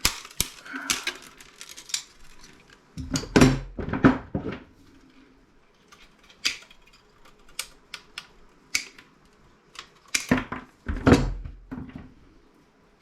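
Hand tools and metal parts clicking and clinking while a CRT monitor's deflection yoke is worked apart, with two bursts of heavier knocks and clatter about three seconds in and again about ten seconds in.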